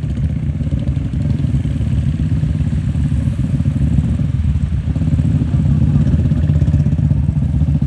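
Motorcycle engine running steadily at road speed, heard from the moving bike as a dense low rumble.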